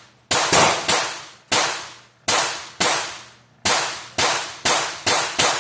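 Gunshots at a shooting range: about eleven sharp, loud reports in quick, uneven succession, each dying away fast.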